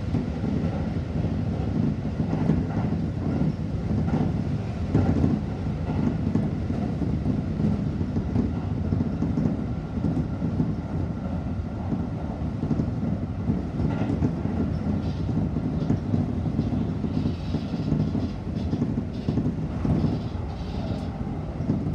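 Running noise of a Seibu 40000-series S-Train heard inside its leading car: a steady rumble of wheels on rail at speed, with a few sharp clicks.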